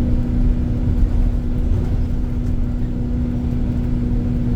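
Iveco Crossway LE Line city bus engine running at a steady, unchanging pitch: a low rumble with a constant hum over it.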